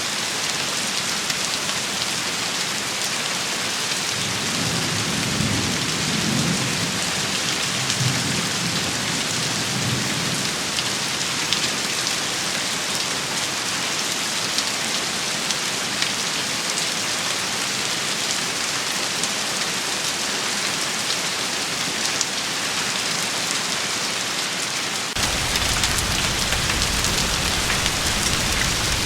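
Steady rain shower hissing, with a low rumble of distant thunder from about four to ten seconds in. About twenty-five seconds in, the sound changes abruptly and a steady low rumble joins the rain.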